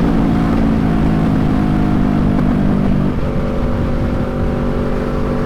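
Motorcycle engine running steadily under way, with low rumbling wind noise; the engine note changes about three seconds in.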